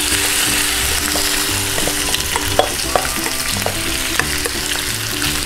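Marinated chicken strips sizzling hard in hot canola oil in a wok as they are scraped in and stirred, with the spatula clicking now and then against the bowl and pan.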